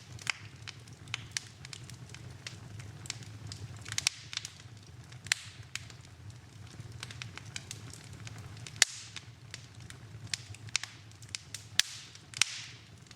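Wood fire crackling in a fireplace: irregular sharp pops and snaps over a steady low rumble, the loudest snap about nine seconds in.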